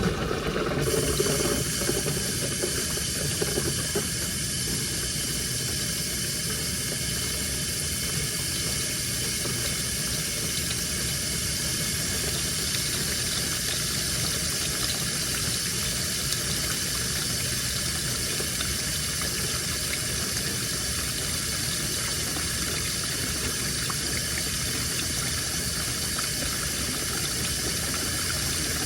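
Washing machine taking in water at the start of a wash: a steady, continuous rush of water into the drum.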